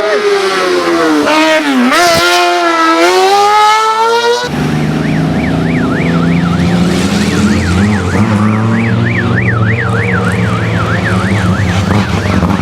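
A hillclimb race car's engine revving hard, dropping sharply in pitch about two seconds in as it brakes and shifts down, then climbing again through the revs. About four and a half seconds in it cuts to a steady low engine hum with a fast warbling siren over it.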